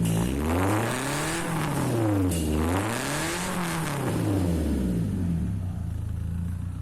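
BMW 316i E46's 1.6-litre four-cylinder engine, breathing through new long-tube 4-2-1 headers, a stainless midpipe and a Borla muffler, revved twice in quick free-revs. Then it settles back to a steady idle about five seconds in.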